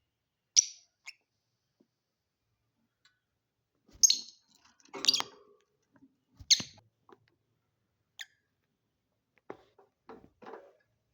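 Lovebirds giving a few short, shrill chirps separated by silence, with some faint knocks and rustles near the end.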